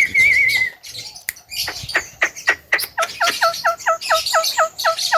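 Javan myna calling: a short warbling whistle, then a quick run of sharp downward-sweeping notes, then a steady string of short notes that each drop in pitch, about four a second, over high chirping in the background.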